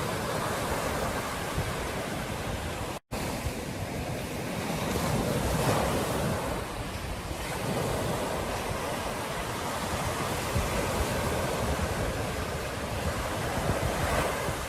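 Ocean surf washing onto a beach, a steady rush that swells and eases, with wind buffeting the microphone. The sound cuts out for an instant about three seconds in.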